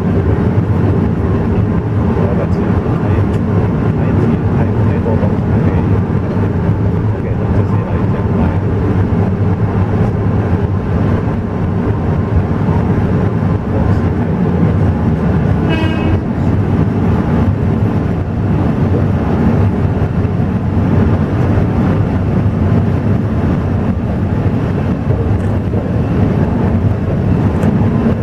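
Alishan Forest Railway train running, a loud, steady rumble and rattle with a low hum. About sixteen seconds in, a brief high-pitched squeal or whistle sounds over it.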